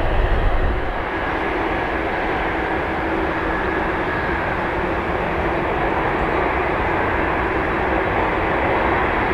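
Jet airliner engines running with a steady, loud noise; a deep rumble eases off about a second in.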